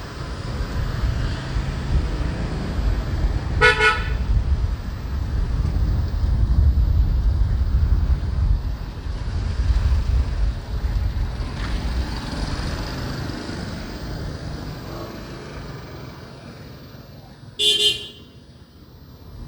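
Low, steady rumble of street traffic, with two short vehicle horn toots: a brief one about four seconds in and a louder one near the end.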